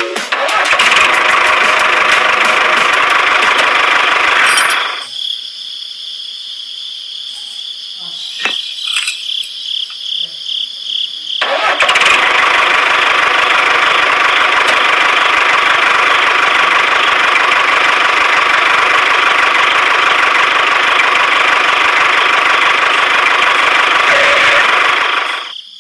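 A small motor of a homemade model tractor running with a loud, steady buzz. It stops about five seconds in, a few clicks follow, and it starts again about halfway through and runs until just before the end.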